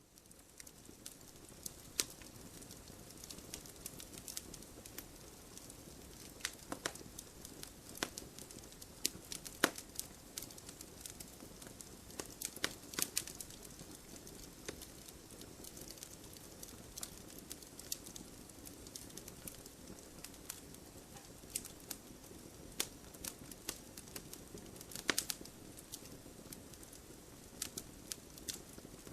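Wood fire burning in a wood-burning stove: irregular sharp crackles and pops over a low steady rush of flame. It fades in from silence at the start.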